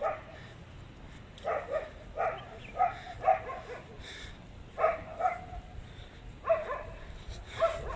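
Dogs barking, a few barks at a time with short pauses between the groups.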